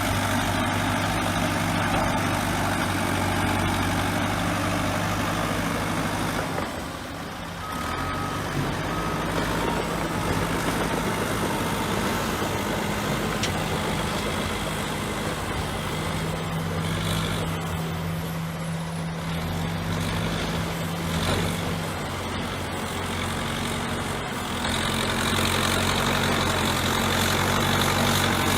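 Bulldozer's diesel engine running steadily, easing off briefly about seven seconds in and getting louder near the end. Two short beeps sound just after the dip.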